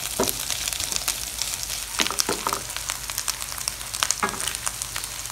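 Diced pork frying in a pan with a steady sizzle and constant crackling pops, while a spatula stirs it and scrapes the pan a few times.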